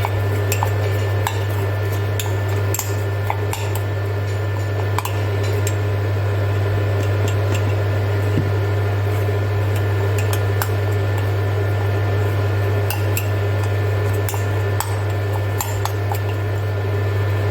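A spoon scraping and clinking against a bowl with irregular sharp clicks while egg and semolina are stirred into a stiff dumpling dough. A steady low hum runs underneath.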